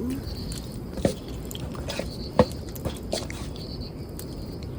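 Eating sounds at a meal: a few scattered sharp clicks and small knocks over a faint steady background.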